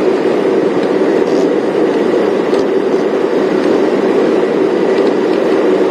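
Safari game-drive vehicle running steadily: an even, continuous engine and road noise with no breaks.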